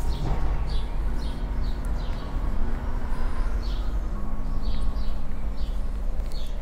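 Small birds chirping over and over against a steady low rumble, with a faint steady hum that grows a little stronger about four seconds in.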